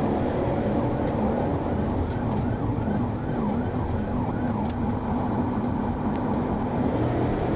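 Police siren yelping in fast, repeated rising-and-falling sweeps over steady engine and road noise from a patrol car in pursuit; the sweeps are clearest through the first half.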